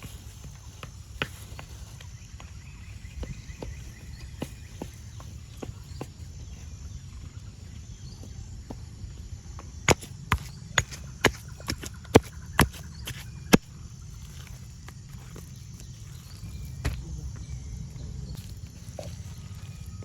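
A series of sharp knocks: scattered light clicks, then a run of about eight loud strikes roughly two a second midway, over a steady low rumble.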